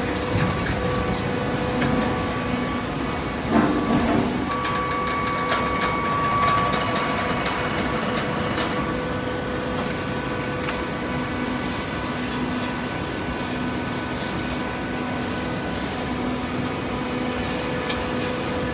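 Hydraulic baler running with a steady mechanical hum, with a few knocks and clatter about four seconds in.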